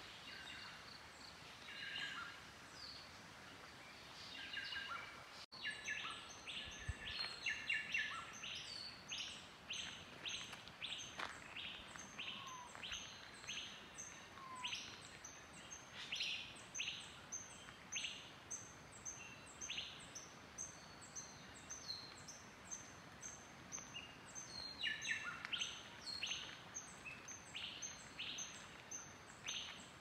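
Wild forest birds calling: a busy chorus of short sharp chirps and whistled notes from several birds, with a high thin note repeating steadily about twice a second through most of it.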